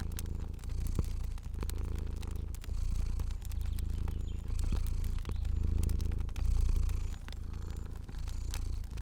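A domestic cat purring steadily, the low rumble swelling and easing in pulses about once a second with its breathing. Scattered small pops and clicks of a crackling fire sound over it.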